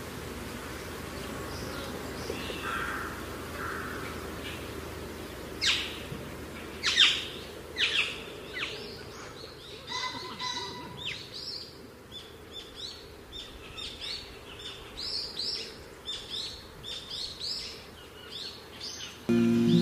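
Small birds calling: a few faint calls, then from about six seconds in a long series of sharp, short chirps that each sweep downward, repeated many times over a low steady outdoor background. Music starts abruptly at the very end.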